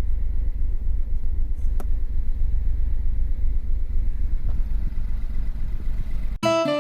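Suzuki Wagon R MH21S's RR-DI three-cylinder engine idling, a steady, fast, low exhaust pulsing that the owner likens to a rotary engine and tags as a fault. It cuts off suddenly near the end as piano music comes in.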